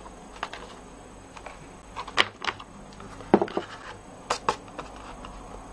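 Light taps and clicks from craft items being handled on a desk while silver embossing powder is applied to a stamped card, with the sharpest knocks about two seconds in and around three and a half seconds.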